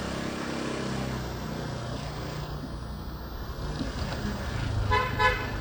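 Motorbike riding in city traffic: engine running steadily with wind noise, and a vehicle horn beeping twice briefly near the end.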